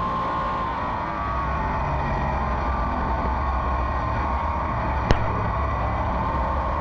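A field of oval-track race cars running laps under green: a steady blend of many engines, with several engine pitches drifting slowly against a deep rumble. A single short click about five seconds in.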